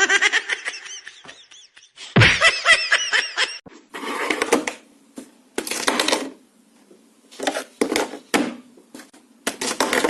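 Snatches of laughter, a quick run of repeated 'ha-ha' sounds, broken off abruptly several times as one short clip gives way to the next.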